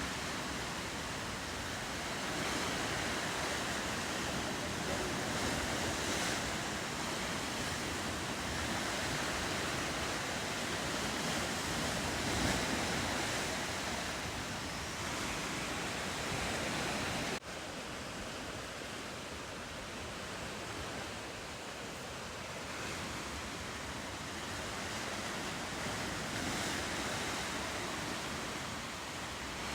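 Ocean surf washing steadily along a rocky coast, an even rushing noise that swells and eases slightly. About two-thirds of the way through it cuts out for an instant, then carries on a little quieter.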